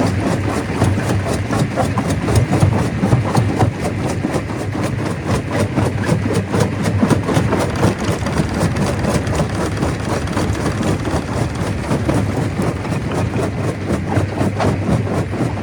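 Stone crusher machine running under load: a steady heavy machine drone with a dense, continuous clatter of rapid knocks as stone is crushed.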